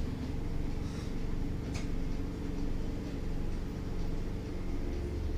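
Inside a British Rail Class 313 electric train running at speed: a steady low rumble with a steady hum above it. One brief click about two seconds in.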